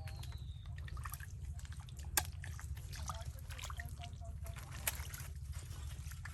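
Wet tidal mud and water trickling and dripping, with many small ticks and two sharp clicks, about two seconds in and near five seconds, over a steady low rumble.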